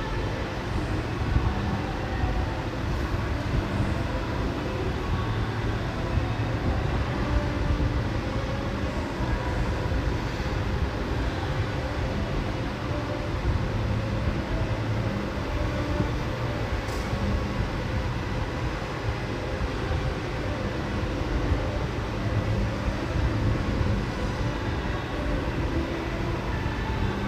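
A very large fan running steadily: a constant deep rush of moving air with a low hum beneath it.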